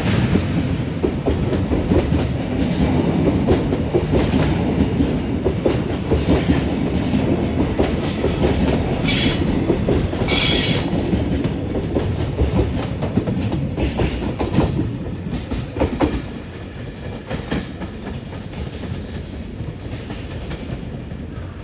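Container wagons of a freight train rolling past, wheels clattering over the rail joints, with a few brief high squeals. The rumble drops off noticeably about sixteen seconds in.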